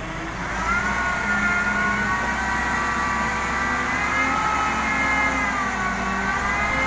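A heavy vehicle engine running under load, its level rising about half a second in, with a whine that slowly rises and falls in pitch.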